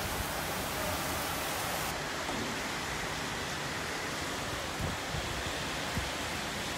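Heavy downpour driven by strong wind: a steady, even hiss of rain, with a couple of faint low thumps in the second half.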